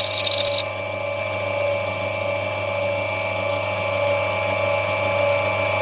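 Opal being ground on a wet lapidary grinding wheel: a loud hissing rasp that stops abruptly about half a second in, after which the machine's motor keeps running with a steady hum.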